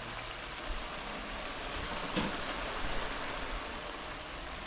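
Squash, tomatoes and tomato paste sizzling steadily in hot oil in a pot, with one light knock about two seconds in.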